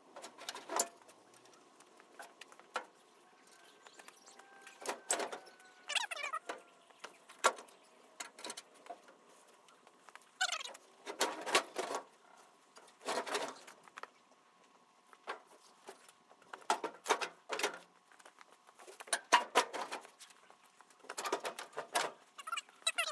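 Irregular bursts of metallic clattering and rattling, a cluster every second or two, as the truck's front-end sheet metal is lifted and worked forward, with a faint steady whine behind.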